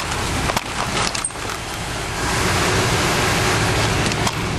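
The 1967 Oldsmobile Delmont 88's 425 cubic-inch V8 idling cold as it warms up after a cold start. A few sharp clicks come about a second in, and the engine sound dips briefly, then comes back up a little past two seconds in.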